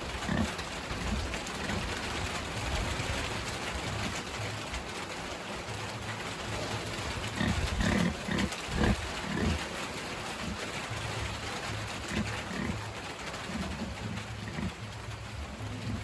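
Pigs grunting: a run of short, low grunts that grows louder about halfway through.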